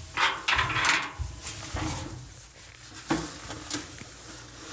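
Handling noises from changing a dryer's light bulb: rustling and scraping in the first second, then two sharp clicks about three seconds in.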